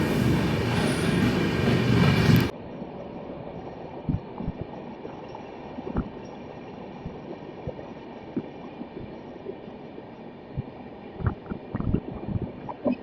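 Loud running noise of a train with steady high tones over it, which cuts off abruptly about two and a half seconds in. Then a much quieter, muffled background with scattered short knocks and thumps, more of them near the end.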